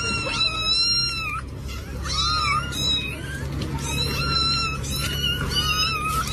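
Cat meowing over and over in a string of high-pitched calls, each rising and falling.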